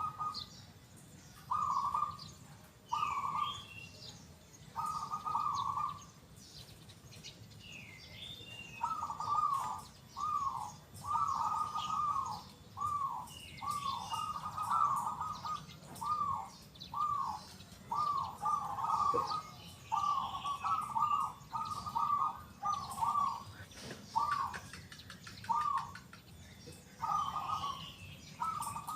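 Zebra dove (perkutut) cooing: a few separate notes at first, then a long run of quick short coos. Other small birds chirp faintly in the background.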